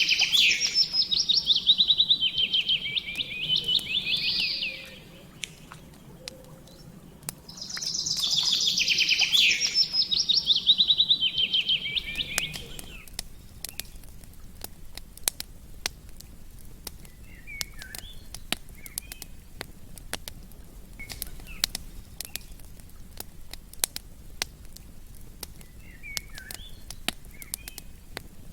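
A songbird sings two long phrases of rapid, repeated high notes, each about five seconds long. After that, a campfire crackles with sharp little pops, and faint bird chirps come now and then.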